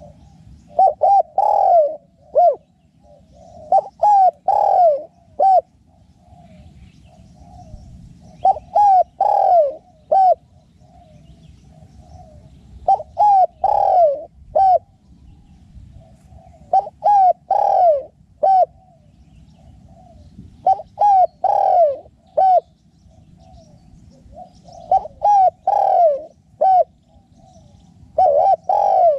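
Spotted dove cooing its song over and over: a phrase of several loud coos roughly every four seconds, with softer, rough notes in between, eight phrases in all.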